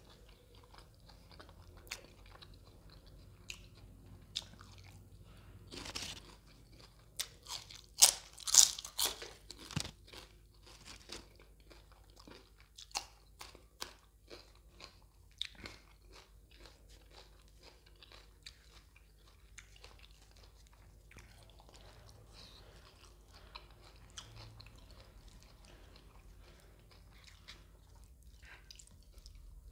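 Close-miked eating sounds: a person chewing, with sharp crunching bites. The loudest run of crunches comes about eight seconds in, and scattered smaller crunches and mouth clicks follow, including bites of a raw green chilli.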